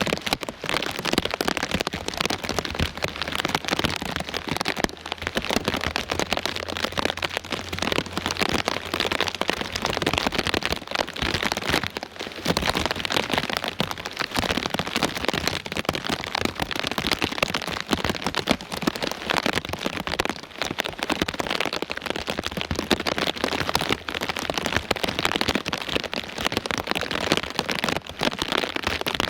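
Heavy rain pouring down steadily, a dense patter of countless drops on surfaces.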